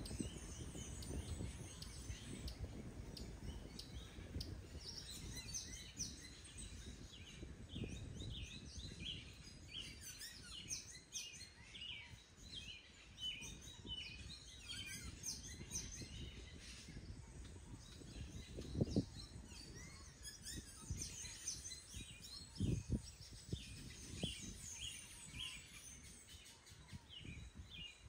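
Small birds chirping repeatedly over a low outdoor rumble, with two dull thumps about two-thirds of the way through.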